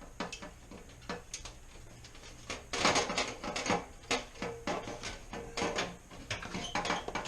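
A loosened pan inside a refrigerator cabinet being handled and pulled out: a run of irregular clicks, knocks and rattles, busiest a few seconds in.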